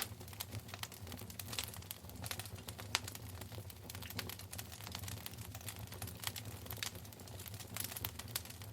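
Wood fire crackling in a fireplace: dense, irregular sharp pops and snaps over a low, steady rumble of burning.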